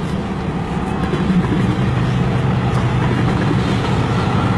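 Freight cars of a long train rolling past close by: a steady noise of steel wheels on the rails.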